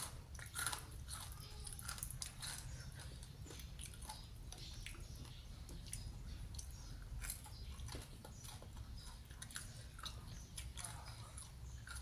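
A person biting and chewing food close to the microphone, with many irregular small clicks and mouth noises over a steady low hum.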